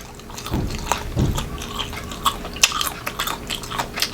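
Close-miked chewing of crunchy unripe green mango, with sharp crisp crunches as a bite is chewed.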